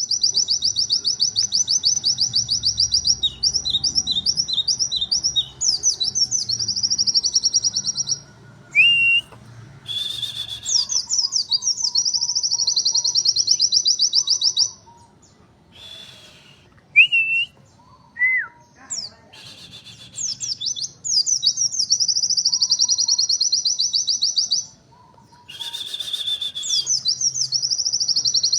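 White-eye (pleci) singing in its rapid-fire 'nembak' style: long runs of very fast, high, trilled notes lasting several seconds each, broken by short pauses with a few single whistled notes, the longest pause coming about halfway through.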